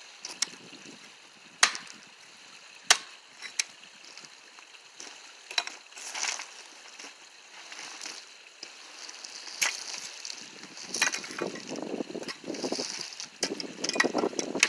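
Shovel digging into gravel and rock, with scraping and several sharp clinks as the blade strikes stones.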